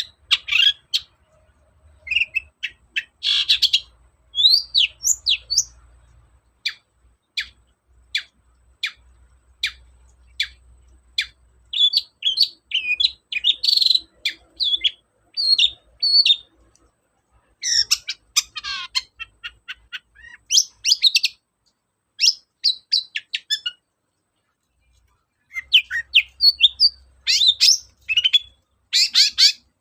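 Long-tailed shrike singing: rapid bursts of short, sharp high chirps and quick slurred whistles, with a pause of about two seconds near the end.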